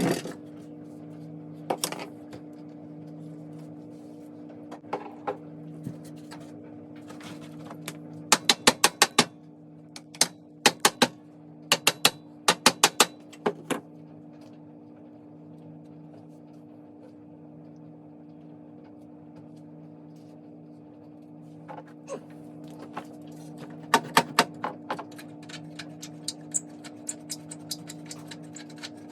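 Short bursts of sharp clicks, several in quick succession, over a steady low hum; the clicks come in three groups.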